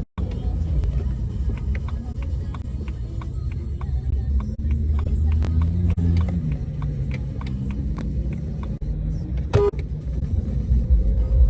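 A car being driven: a steady deep engine and road rumble whose pitch drifts up and down, with scattered light clicks and a brief sharp sound near the end, after which the engine pitch rises as it speeds up.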